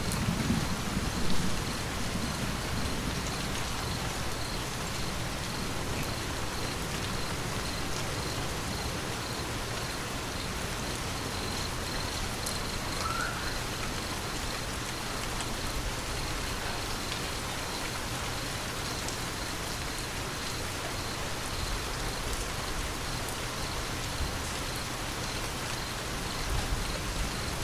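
Steady rain falling, with the tail of a thunder rumble dying away in the first couple of seconds.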